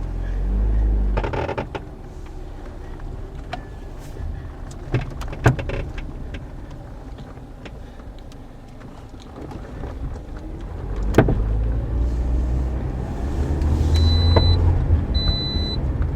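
Car cabin noise, a low road and engine rumble, broken by several sharp knocks: the front-suspension clunking that the owner believes comes from a worn strut bearing that no longer turns. Near the end a high beep repeats about once a second.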